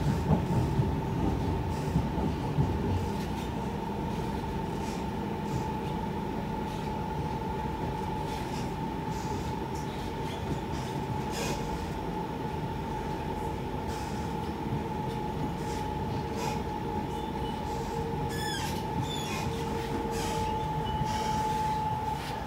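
Siemens C651 electric train heard from inside the passenger car, running steadily along the track: a continuous rumble of wheels on rail with a steady high whine over it. It jolts a few times in the first seconds, and near the end there are a few brief high squeaks.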